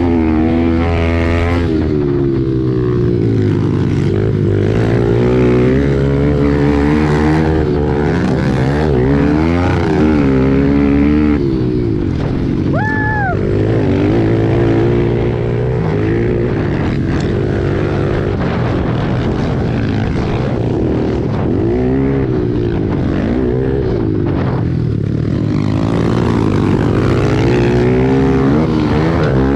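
Several pit bike engines revving up and down again and again as the riders work the throttles through the course, with a brief high-pitched tone about halfway through.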